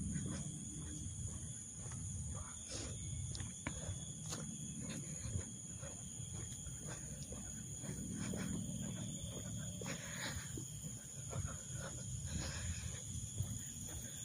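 Footsteps on an outdoor path, with wind rumbling on the microphone and a steady high buzz of insects.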